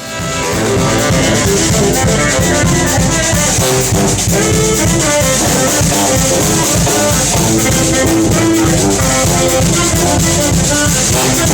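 Live brass band playing an upbeat tune, with horns over a steady drum beat.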